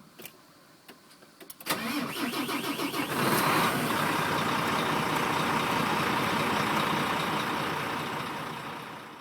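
A few faint clicks, then about two seconds in the Volvo FH12 truck's diesel engine cranks and catches. It runs steadily from about three seconds in and fades out near the end.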